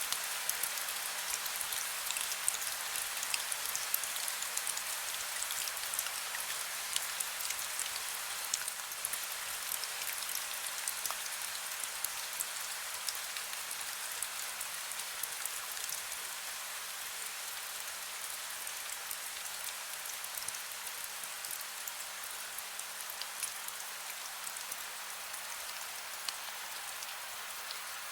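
Heavy rain falling steadily, with many distinct drops pattering on a surface. The drop hits are denser and sharper in the first half.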